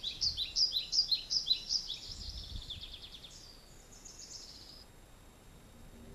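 Songbird singing: a run of quick falling chirps, a little over two a second, followed by a higher, faster trill that stops about five seconds in.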